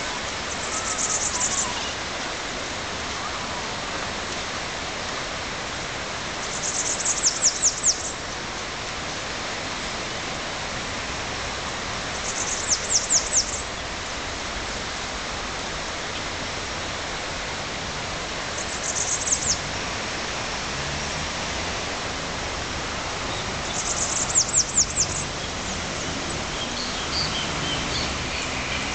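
A small bird repeats a short, rapid series of very high-pitched notes about every six seconds, each series lasting around a second, over a steady background hiss.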